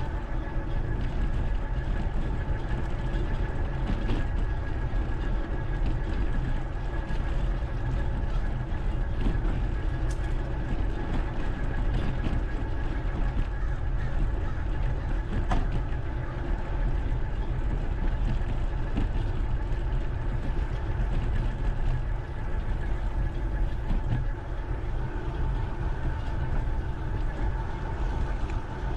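Steady wind rumble buffeting the microphone of a camera mounted on a moving bike, with tyre and trail noise underneath and a few faint steady tones.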